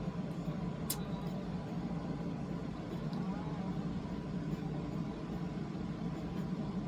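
Steady low background hum, with a single faint click about a second in.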